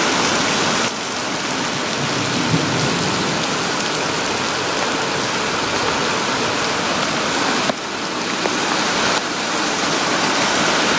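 Heavy rain pouring down: a loud, dense, steady hiss, with brief sudden dips in level about a second in and twice near the end.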